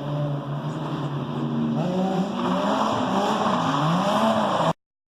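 Drift car engine holding a steady note, then revving up and down from about two seconds in. The sound cuts off abruptly near the end.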